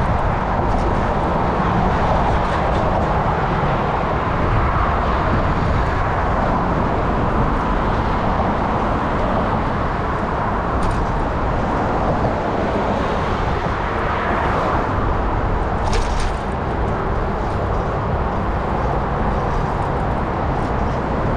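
Steady wind and road noise from a moving bicycle, with a low rumble. Two brief sharp ticks, about halfway through and a few seconds later.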